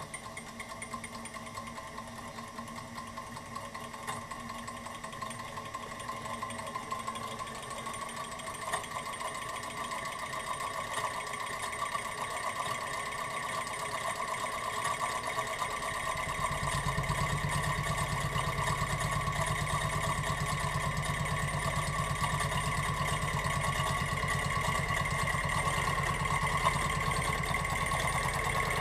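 Model gamma Stirling engine running on its alcohol burner and slowly gaining speed, a fast, even mechanical patter that grows steadily louder. About halfway through a low hum joins as the engine starts to shake the table.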